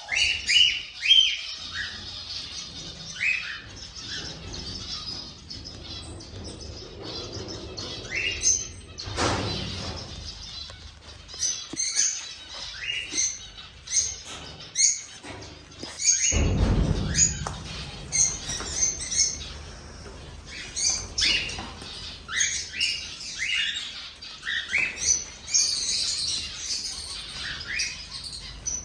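Cockatiels calling with many short, rising chirps throughout. Two louder rustling noises come about nine and sixteen seconds in.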